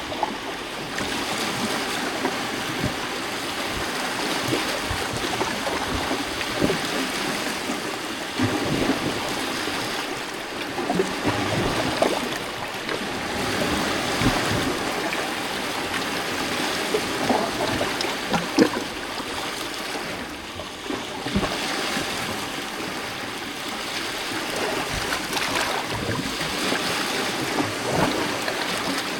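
Small lake waves lapping against a rocky shoreline: a steady wash of water with scattered small splashes and gurgles, swelling and easing every few seconds.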